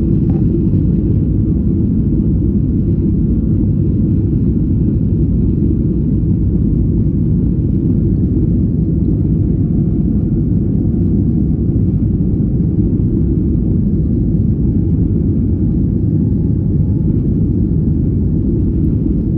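Boeing 737 on its takeoff run, heard as a loud, steady low rumble. A faint tone climbs slowly through the middle.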